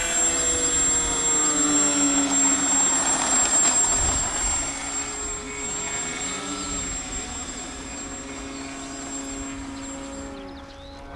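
Motor and propeller of a radio-controlled model aircraft shaped like a Pteranodon, flying past as a steady drone that bends slowly in pitch. It fades gradually over the second half.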